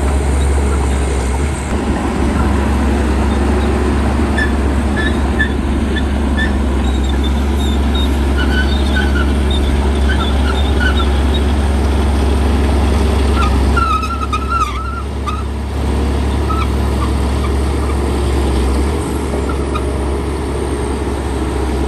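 Heavy diesel earthmoving machinery running steadily under work, a loud deep engine hum, dipping briefly about two-thirds of the way through.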